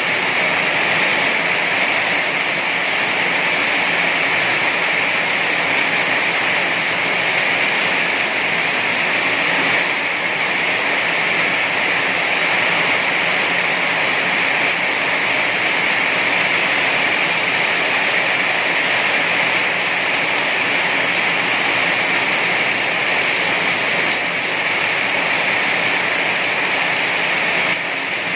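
Heavy rain falling steadily, a dense even hiss with no breaks or single drops standing out.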